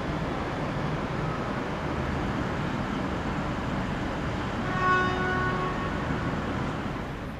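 A train's steady rumble in a railway station. About five seconds in comes a single pitched toot from a train, lasting about a second.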